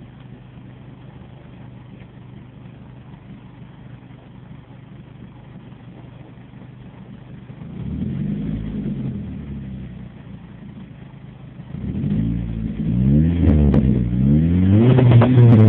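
2004 Dodge Stratus SXT's 2.4-litre four-cylinder engine heard through a Magnaflow muffler with no resonator, idling steadily, then revved once about eight seconds in and blipped repeatedly from about twelve seconds on, each rev rising and falling in pitch and the revs getting louder.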